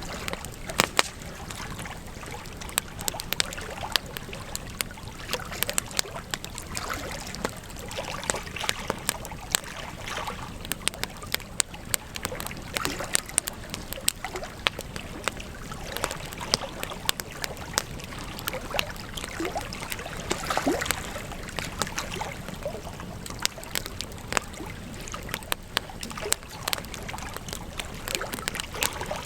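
Wood campfire crackling: a steady low rush of flames under frequent irregular sharp pops and snaps, with a slightly louder spell about twenty seconds in.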